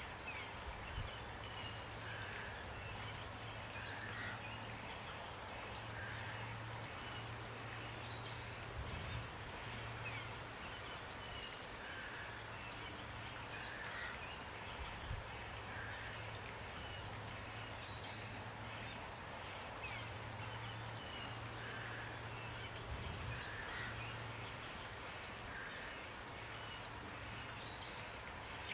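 Steady rain hiss with small songbirds chirping and trilling over it in short high phrases every second or so, and a low hum that comes and goes.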